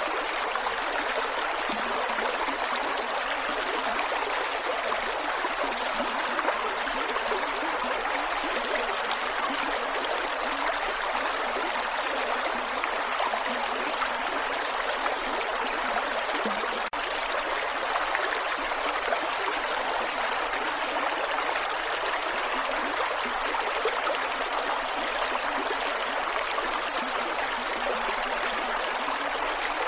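Creek water flowing over rocks: a steady rush with gurgles.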